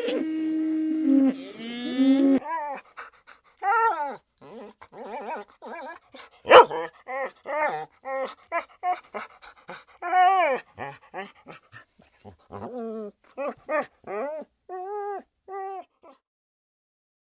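A cow's moo trails off in the first couple of seconds. Then a dog yips and whimpers in a long run of short, high calls, some of them single sharp yelps, stopping a second before the end.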